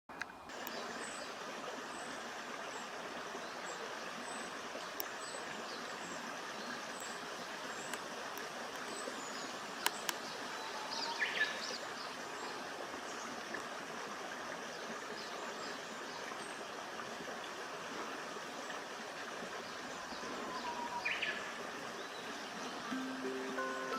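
Woodland birds calling over a steady hiss of background noise. A thin, very high note repeats about once a second, and a short bird phrase sounds twice, about ten seconds apart. Background music begins near the end.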